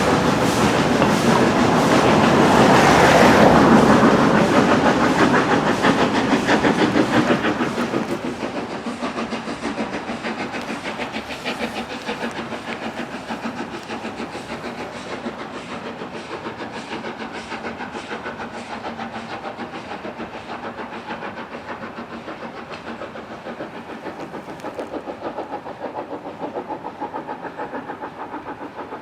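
Steam locomotive working under steam, a fast, even run of exhaust beats. It is loud at first and fades away over the following seconds as the engine draws off.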